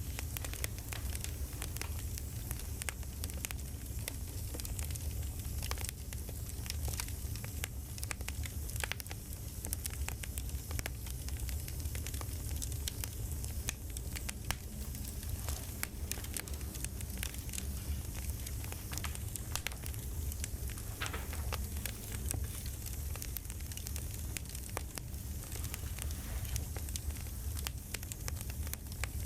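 Campfire crackling steadily, with many small wood pops over a low rumble of flame.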